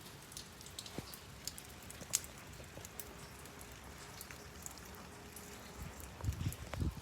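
Light rain falling, with individual raindrops ticking irregularly on a surface over a faint steady hiss. A few low thumps come near the end.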